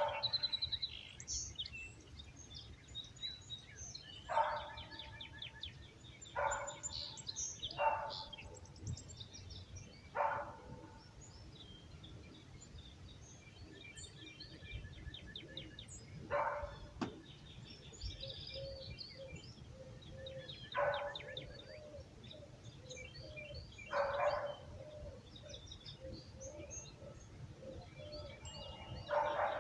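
Dawn chorus of many small birds chirping and trilling, with a dog barking once every few seconds, the barks the loudest sounds.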